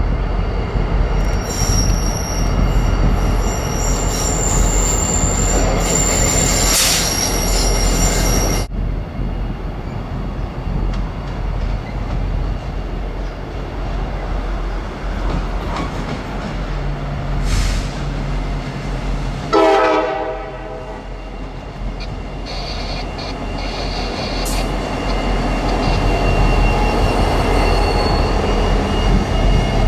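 Train rolling past, with high-pitched wheel squeal in the first several seconds and a short horn blast about twenty seconds in.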